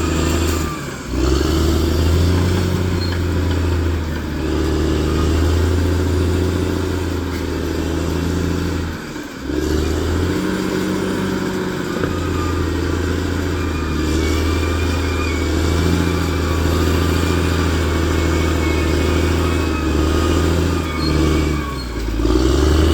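Bulldozer's diesel engine running steadily while working, with a brief drop in sound about a second in, again near the middle, and once more near the end.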